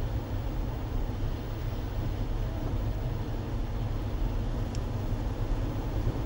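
Steady low rumble of a car driving, heard from inside the cabin: road and engine noise with no changes in pace.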